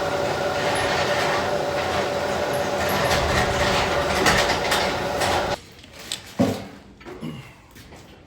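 Vertical milling machine running with the end mill cutting flats on a round control rod: a steady, dense machining noise that cuts off suddenly about five and a half seconds in, followed by a few light knocks.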